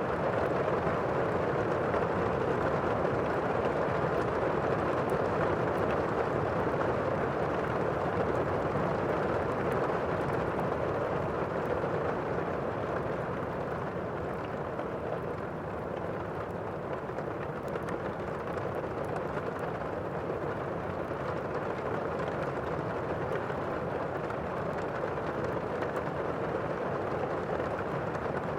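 Thunderstorm-and-fireplace ambience: a dense, steady hiss of heavy rain, with faint crackles of a wood fire mixed in. It eases slightly around the middle and builds again.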